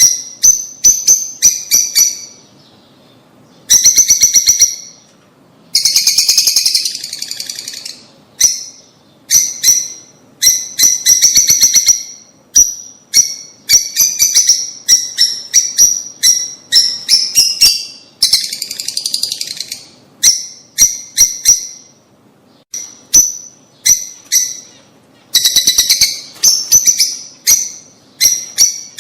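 Lovebirds calling: rapid runs of sharp, high-pitched chirps with short pauses between them, and longer stretches of dense chattering about six seconds and nineteen seconds in.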